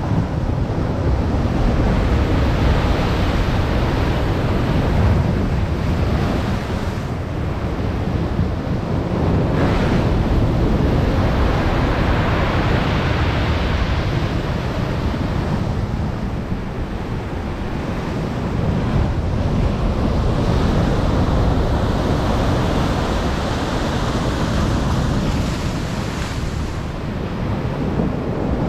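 Storm surf on the Black Sea shore: heavy waves breaking and washing in, swelling and easing every several seconds, with wind buffeting the microphone.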